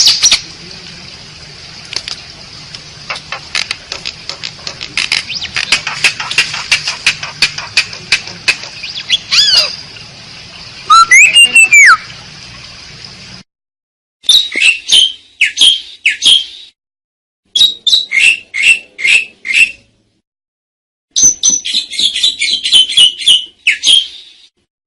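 Asian pied starling (jalak suren) calling, with harsh chattering notes and a few gliding whistles. For the first thirteen seconds a steady high hiss runs underneath. After that the recording becomes clean: quick bouts of chattering calls, each a second or two long, with short silences between.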